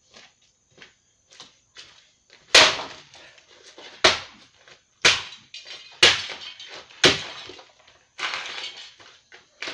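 A space heater being chopped apart: a few light knocks, then about five heavy blows roughly one a second, each with a crunching, clattering tail, and a longer rattling crash near the end.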